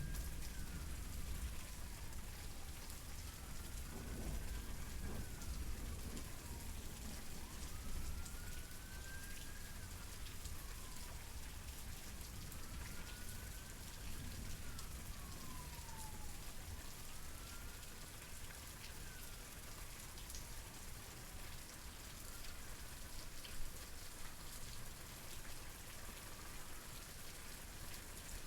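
Steady rain falling, with a distant siren wailing over it in slow rising and falling sweeps, about one every four to five seconds, growing fainter over the second half.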